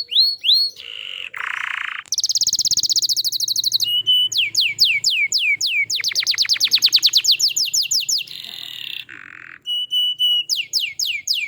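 Domestic canary singing a continuous rolling song of repeated phrases: runs of quick rising whistled notes, a very fast trill a few seconds in, and short steady held notes, with two brief harsh bursts. This is a full 'gacor' song, as used to prompt other canaries to sing.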